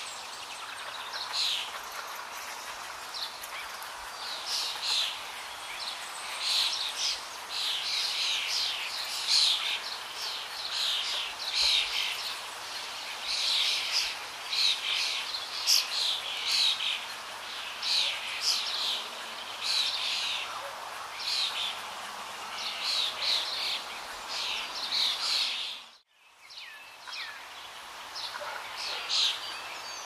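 Forest ambience: many birds chirping and calling in quick, overlapping phrases over a steady background hiss. Near the end the whole sound cuts out for a moment, then resumes.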